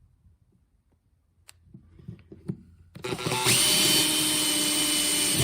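Small handheld power tool spinning up about three seconds in and running steadily at a high whine, working on one of the carburetor's small plugs. Faint clicks and handling knocks come before it starts.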